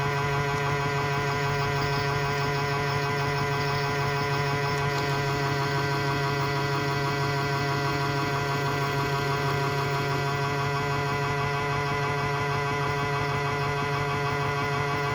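AEG/Electrolux Lavamat 84950 front-loading washing machine in its final spin, the drum turning at a constant speed: a steady motor hum with several even whining tones over it.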